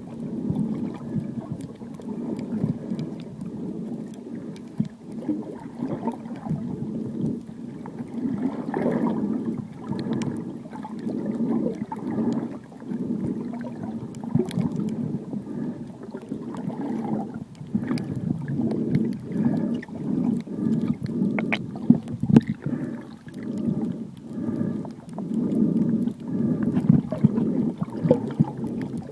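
Muffled underwater sound of sea water moving and bubbling around the camera, swelling and easing every couple of seconds, with scattered faint clicks.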